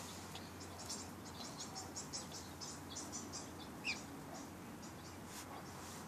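Small birds chirping: a quick run of short, high chirps over the first few seconds, then one louder falling chirp about four seconds in, and a few fainter chirps after.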